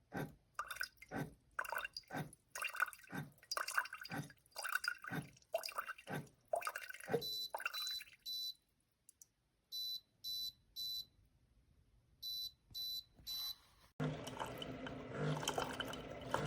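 Single-serve pod coffee maker sputtering and dripping in irregular clicks for about seven seconds, then beeping: a short high beep sounding in three sets of three. Background music comes in near the end.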